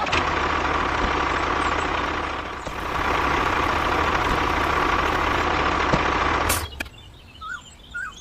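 Small motor running steadily with a faint whine, dipping briefly a little after two seconds in, then cutting off suddenly about six and a half seconds in.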